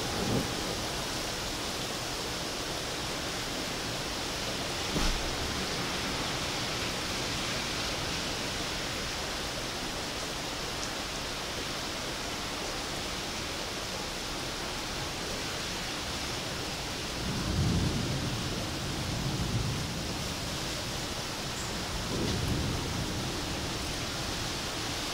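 Heavy downpour, a steady hiss of rain, with low rumbles of thunder about two-thirds of the way through and again near the end. A single sharp tap about five seconds in.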